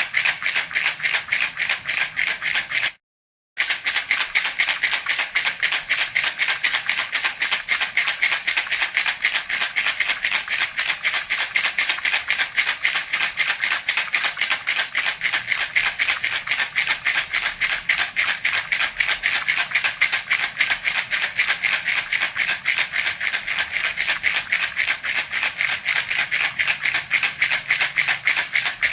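Baby's rattle (jhunjhuna) shaken continuously in a fast, even rhythm, several shakes a second, with a brief cut to silence about three seconds in.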